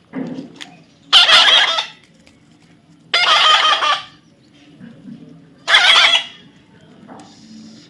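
A young parrot giving three loud, harsh squawks, each under a second long and about two seconds apart.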